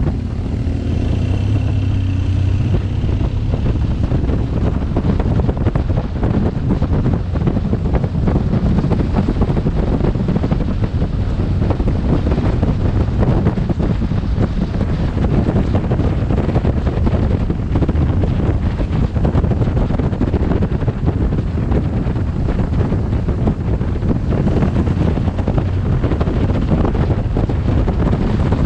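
Wind rushing over a helmet-mounted camera's microphone on a moving BMW GS1200 motorcycle, a steady, dense low rumble. Under it, a rising engine note shows briefly near the start.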